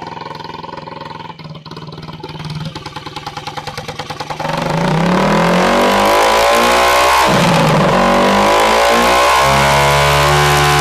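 Motorcycle engine idling with an even pulse, then revved about four seconds in and getting much louder, the revs rising and falling several times before being held high near the end. The revving raises the output of the motorcycle's stator, which powers the electrolysis cell.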